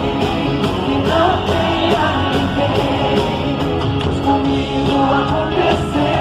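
Live band playing a pop-rock song with a steady drum beat and some singing over it.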